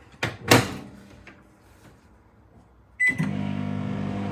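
A sharp clunk near the start, then about three seconds in a short beep and a microwave oven starts running with a steady hum.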